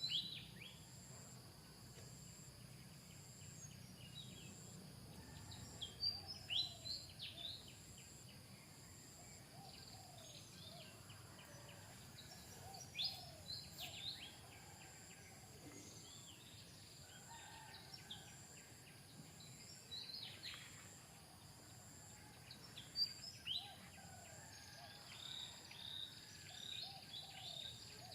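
Birds chirping in short clusters of quick high notes every few seconds, over a steady insect drone with an evenly pulsing high buzz.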